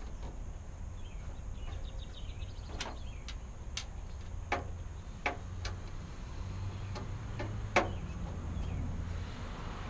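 Sharp, irregularly spaced clicks and clinks of hand tools and loose metal parts being handled while the headlight bezel screws come out, about seven in all, the loudest near the end, over a steady low hum.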